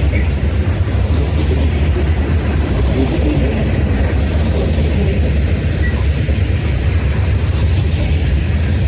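Freight train of covered hoppers and tank cars rolling past: a loud, steady low rumble of steel wheels on rail.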